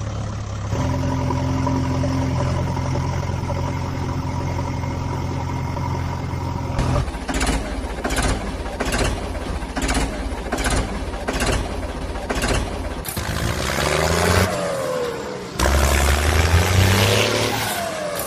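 Vehicle engine sounds: a steady engine hum for the first several seconds, then regular knocks about once a second, then engine revving with the pitch sliding up and down in the last few seconds.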